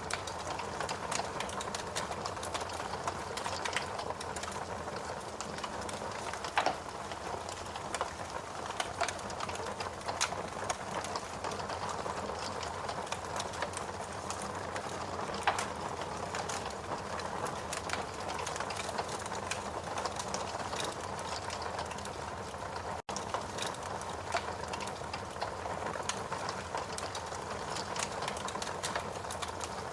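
Steady rain hiss mixed with a wood fire crackling in a fireplace, with irregular sharp pops and snaps throughout. The sound drops out for a split second about two-thirds of the way through.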